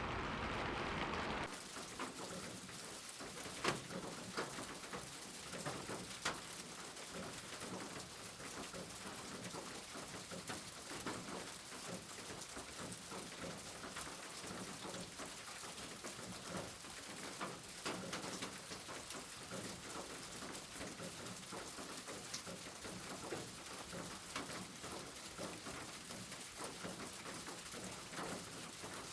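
Monsoon rain falling steadily, a hiss dotted with the sharp ticks of single drops striking hard surfaces. A louder, duller sound at the start gives way to the rain about a second and a half in.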